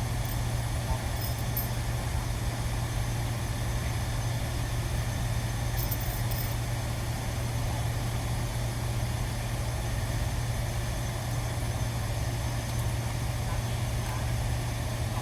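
Steady low hum of running machinery, an unchanging drone with no speech over it.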